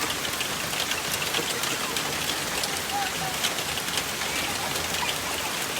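Steady rain falling, with a constant hiss and many separate drops striking and splashing close by.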